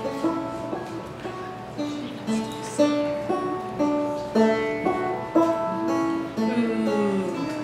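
Solo banjo playing a plucked melody, note by note, ending with a falling slide near the end.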